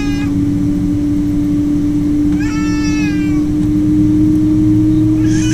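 Steady aircraft drone with one strong low hum, over which a cat meows twice, about two and a half seconds in and again near the end, each meow a short rising-then-level call.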